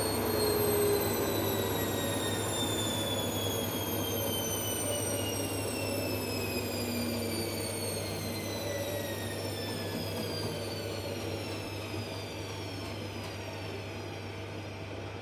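Indesit washing machine's drum and motor winding down after a fast spin: a high whine that falls slowly and steadily in pitch and grows quieter, over a constant low hum.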